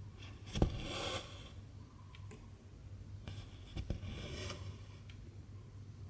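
Cross-stitching: the needle pierces the stretched fabric with a light tap, and the thread is drawn through with a rasping swish. This happens twice, a few seconds apart.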